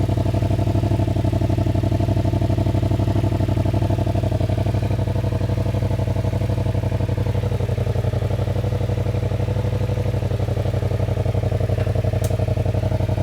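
2016 Yamaha FZ-07's 689 cc parallel-twin engine idling steadily on a cold start, warming up, through a modified stock exhaust with its end pipe cut short. The idle settles slightly lower about halfway through.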